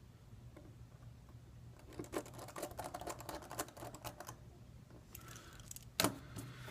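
Quick run of light clicks and taps from a Samsung Galaxy S3's small plastic parts being handled during reassembly, then one sharper click near the end, over a low steady hum.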